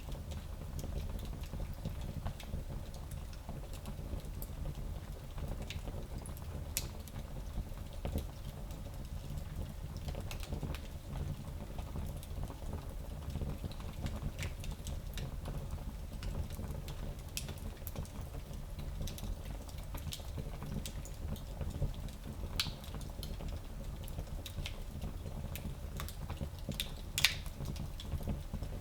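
Fire in a small fireplace crackling, with scattered sharp pops over a steady low rumble, and one louder pop near the end.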